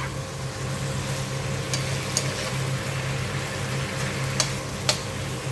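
Stir-fry of chicken, tofu and vegetables sizzling in a pan as it is stirred, with a few sharp clicks of the utensil against the pan.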